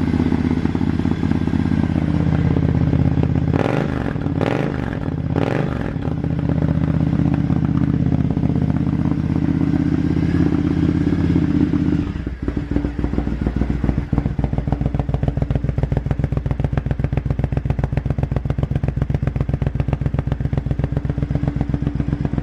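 2013 Triumph Scrambler 900's air-cooled parallel-twin running through a full Arrow exhaust, noisy, at a fast idle. The engine speed swings up and down three times a few seconds in, and at about twelve seconds it drops to a slower, distinctly pulsing idle beat.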